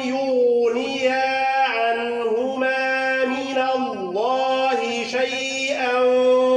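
Quran recitation chanted by a man in a melodic tajweed style, with long drawn-out held notes and gliding turns between them.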